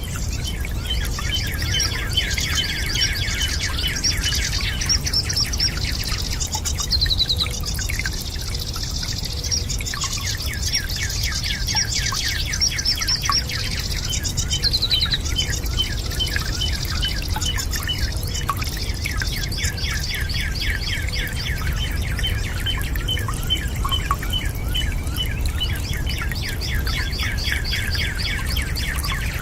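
Birds singing in rapid, repeated trills and chirps, with a steady low rush of water underneath.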